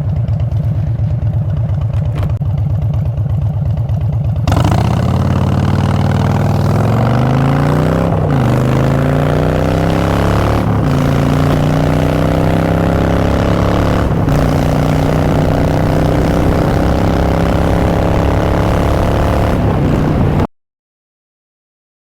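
Harley-Davidson Street Bob's Twin Cam V-twin through Vance & Hines Short Shots exhaust, running low and steady, then opening up about four seconds in and pulling away, its pitch climbing through several gear changes before settling into a steady cruise. The sound cuts off abruptly near the end.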